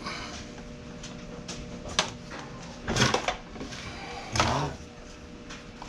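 A few knocks and clanks of metal parts and tools being handled while an engine is unbolted from a scooter frame, over a steady background hum. The loudest clatter comes about three seconds in and again near four and a half seconds.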